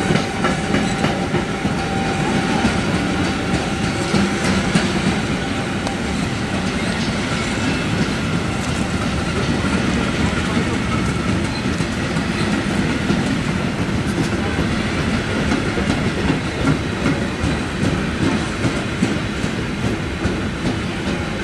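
Freight train of timber wagons rolling past close by: a steady rumble of wheels on rail with a continuous clickety-clack over the rail joints.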